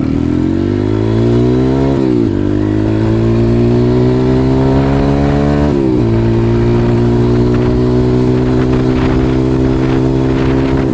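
140cc pit bike's single-cylinder four-stroke engine pulling hard as the bike accelerates, its pitch climbing, falling sharply at two upshifts about two and six seconds in, then holding a steady note at cruising speed.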